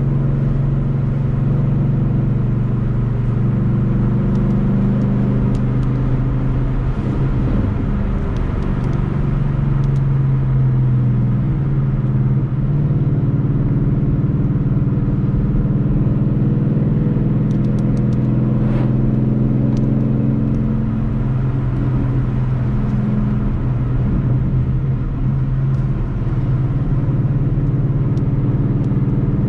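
Ford Mustang GT's 5.0-litre V8 running under steady cruise over wet-road tyre hiss. Its note wavers and shifts pitch about a quarter of the way in and again about two-thirds of the way through, as with a gear change or throttle change.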